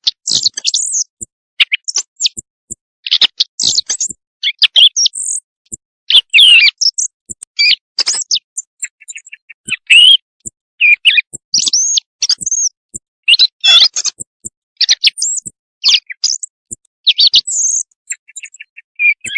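Recorded bird calls played as a night-time hunting lure: a string of short, high-pitched chirps and whistles, some sliding quickly in pitch, coming irregularly one after another.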